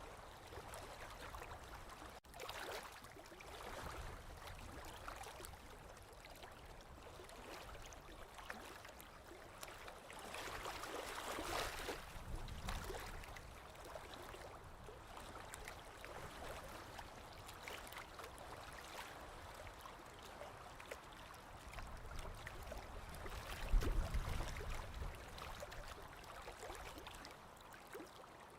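Small waves lapping gently against a lake shore, a soft steady wash with occasional slightly louder splashes, the biggest about eleven seconds in and near twenty-four seconds.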